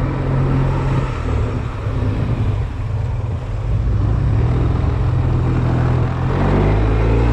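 Honda Silver Wing maxi-scooter's engine running steadily at low revs, a low hum that shifts in pitch about a second before the end.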